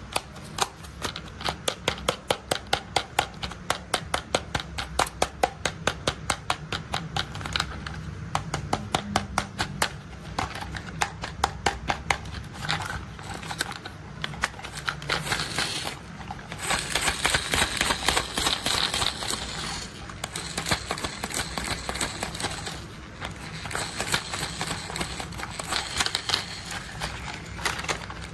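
Rapid, even plastic clicking, about four clicks a second, like a toy's ratcheting part being worked, for roughly the first half. It gives way to a louder rustling hiss with scattered clicks about two-thirds of the way in.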